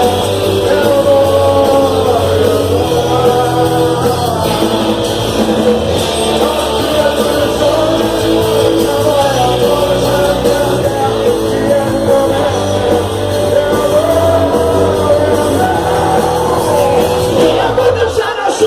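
Worship song sung by a singer with a rock band, the voice carrying over continuous bass and band accompaniment.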